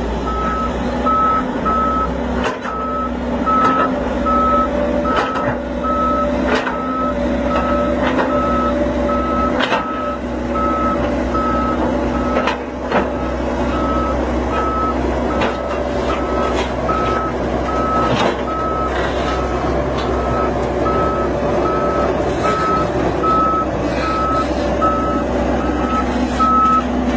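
Heavy machine's back-up alarm beeping at a steady rapid pace, pausing briefly about halfway, over the machine's engine running, with scattered knocks and clanks.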